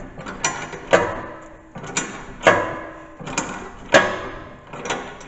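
Sharp metal-on-metal clanks, about eight irregular strikes each ringing briefly, as steel plow-mount hardware is knocked and worked into place.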